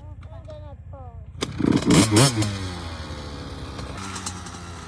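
Youth dirt bike engine idling, then revved hard about a second and a half in with two quick throttle blips, the pitch swinging up and back down, before settling to a steady idle.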